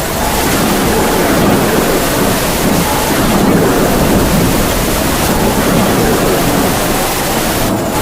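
Heavy rain falling with wind blowing through it: a loud, steady rushing noise with a faint wavering howl of wind.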